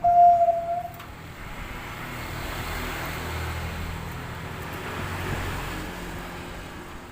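A motor vehicle passing by, its noise swelling to a peak mid-way and fading over several seconds. In the first second a zebra dove's cooing note ends.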